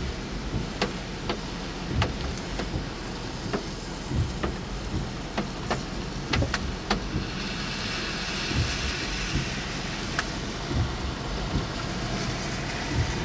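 Steady low rumble of a car heard from inside the cabin, with irregular sharp ticks of rain striking the car.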